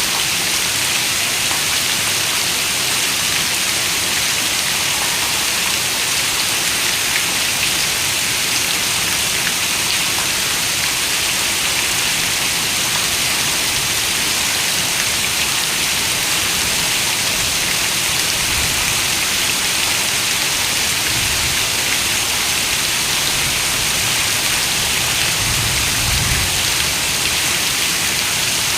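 Heavy rain falling on a window: a dense, steady hiss of drops. A faint low rumble comes in near the end.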